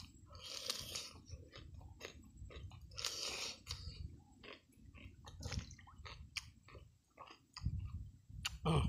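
A man chewing a mouthful of raw green vegetable close to the microphone: wet smacking and crunching in quick irregular bites, with one louder smack near the end.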